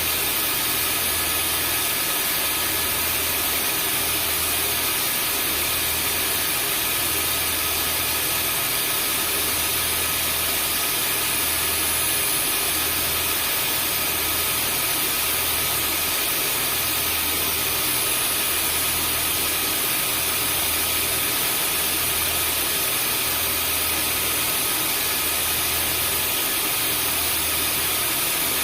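Vacuum cleaner running steadily: an even rushing of motor and airflow with faint high whines, and a low throb underneath that swells about every two seconds.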